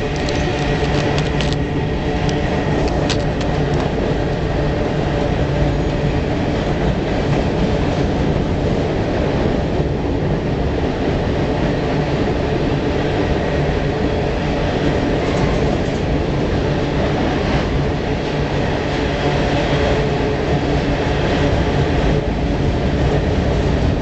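Long freight train rolling across a steel truss railroad bridge, heard from below: a loud, steady rumble and clatter of the cars on the rails and bridge deck, with a few sharp clicks in the first few seconds.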